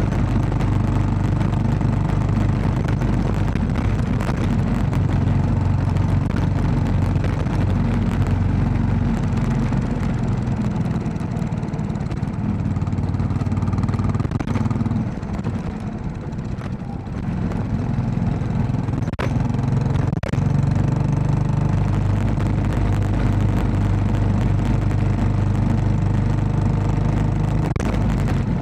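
Royal Enfield Classic 500's single-cylinder engine running steadily under way. Its sound drops away for a few seconds around the middle, then picks up again. Two sharp ticks come shortly after.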